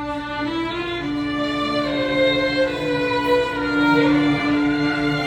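Violin playing a slow melody in long held notes over a low accompaniment: the instrumental introduction before the song's vocals come in.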